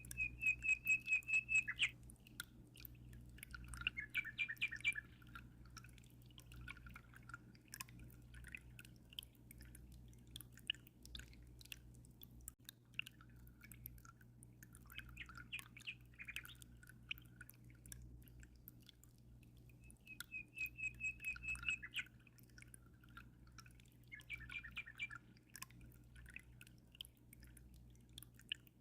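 Songbird singing: a rapid high trill at the start and again about twenty seconds in, with shorter chirping phrases between. Under it runs a faint steady low hum, with scattered small water drips.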